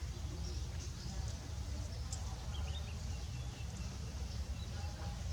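Steady low background rumble with a few faint, short bird chirps about two and a half seconds in.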